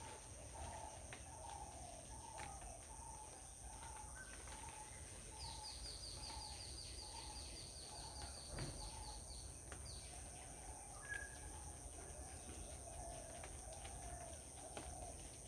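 Birds calling: a short low call repeated about twice a second, and from about five seconds in a rapid high trill of falling notes lasting about four seconds, over a steady high hiss.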